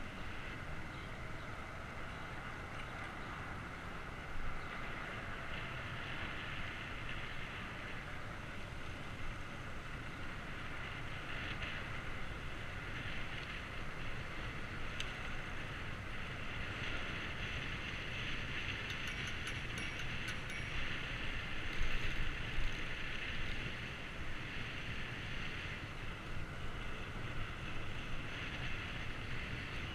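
Steady wind and road noise from riding a bicycle, picked up by a bike-mounted action camera, with a brief run of faint clicks about two-thirds of the way through.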